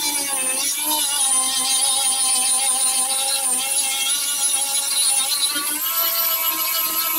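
Electric sander running continuously against the boat's hull, a steady motor whine whose pitch sags slightly and recovers as it is pressed into the surface.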